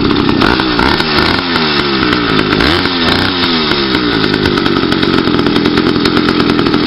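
80cc two-stroke motorized-bicycle engine running loud, with no baffle in its exhaust. Its pitch swings up and down during the first few seconds, then holds steady from about four seconds in.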